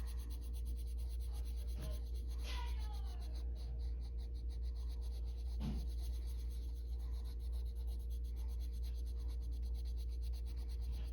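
Colored pencil rubbing across paper in short back-and-forth strokes, laying down and blending color, over a steady low hum.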